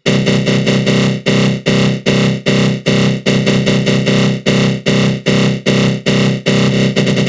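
Synthesized attack-growl sound effect: a harsh, buzzing synth tone from the GMS synth in FL Studio Mobile, run through a flanger, pulsing about two and a half times a second, the pulses quickening into a faster flutter near the end.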